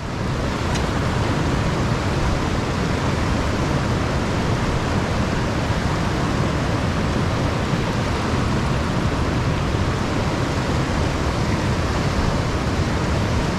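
Steady rush of fast-flowing creek water over rocks, an even hiss that starts abruptly and holds unchanged.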